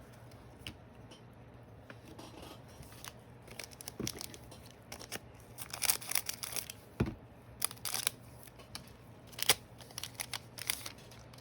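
A foil trading-card pack being opened and handled, with bursts of sharp crinkling and tearing of the wrapper from about four seconds in.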